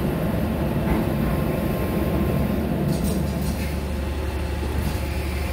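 Diesel railcar heard from inside the passenger cabin: a steady low engine rumble with running noise. About three seconds in it settles into a steadier low hum.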